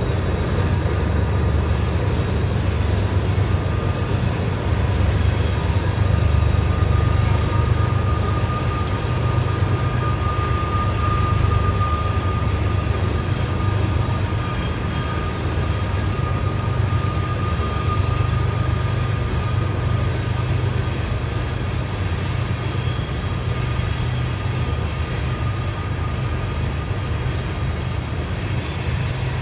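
CSX coal train rolling past at close range: a loud, steady low rumble. A thin, high, steady squeal swells and fades between about 6 and 20 seconds in.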